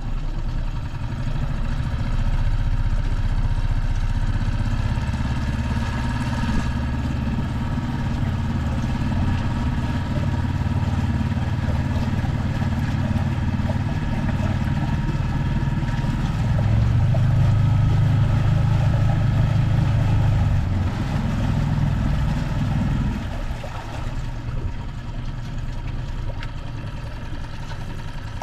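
Small auxiliary outboard motor, still in its break-in period, running steadily under load as it pushes a large boat. It gets louder about 17 seconds in and drops back to a lower, quieter running note about 23 seconds in.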